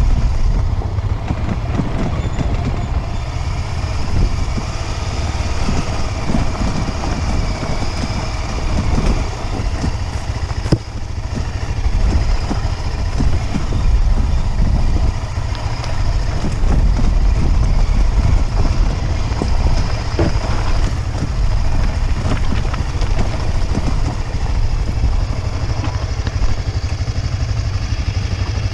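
Motorcycle engine running while riding, with a heavy, steady low rumble picked up by an action camera's microphone.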